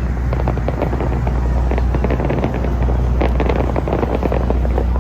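Fireworks going off: a dense run of crackling pops over a steady low rumble.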